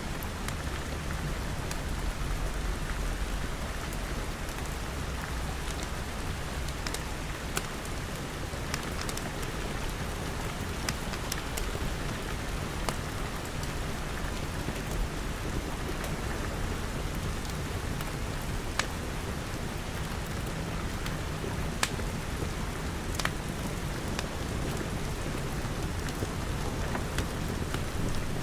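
Steady rain falling on glass with a deep low rumble underneath, and scattered sharp crackles and pops of a wood fire about once a second.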